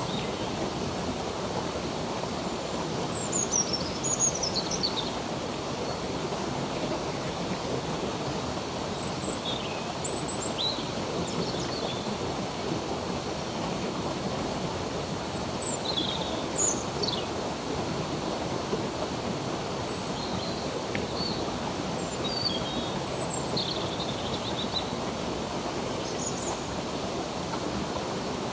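Steady rushing of a flowing stream, with songbirds chirping over it in short, high, downward-sliding notes scattered throughout.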